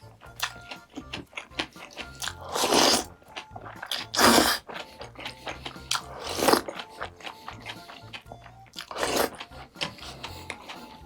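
Close-miked eating: chewing and crunching with many small mouth clicks, and four louder noisy bursts of about half a second to a second. Soft background music plays underneath.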